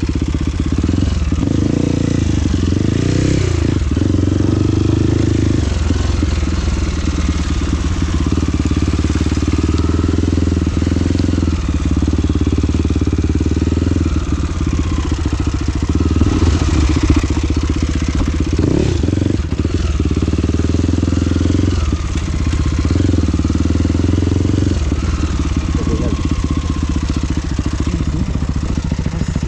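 Motorcycle engine running under way on a trail, its pitch rising and falling now and then as the throttle changes.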